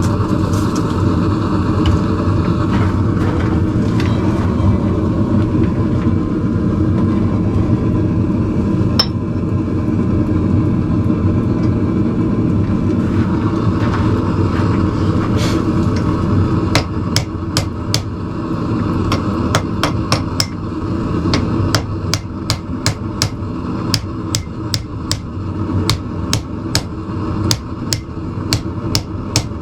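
Hammer blows on hot steel over an anvil, shaping blacksmith tong jaws: a few single strikes, then from about halfway a run of sharp, ringing blows at about two a second. A steady low roar runs underneath.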